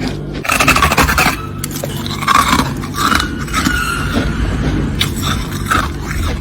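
Frost being scraped off a freezer in a series of rough scraping strokes of uneven length, over a steady low hum.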